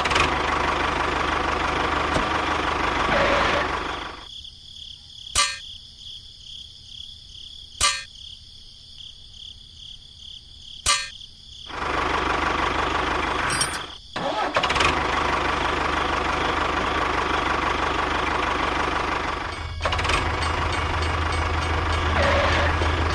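Tractor engine running. About four seconds in it drops out for several seconds, leaving a few sharp clicks, then comes back and runs steadily.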